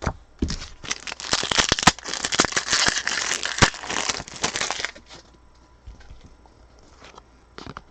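A foil trading-card pack wrapper being torn open and crinkled by hand, a dense crackling rustle for about four and a half seconds, then a few small clicks and handling noises.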